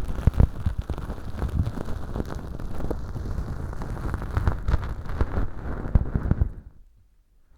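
Bonten feather ear pick scratching inside a transparent tube ear model packed with dry fake earwax, a close, crackly rustle with many small clicks. It stops abruptly near the end.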